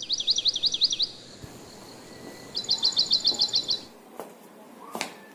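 A songbird singing two quick, high trills of repeated notes, the first right at the start and the second about two and a half seconds in, followed by a couple of faint clicks near the end.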